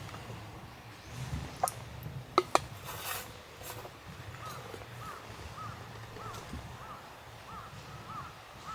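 A bird calling in a run of short, arched notes, about two a second, starting about halfway through. Before it come a few sharp clicks.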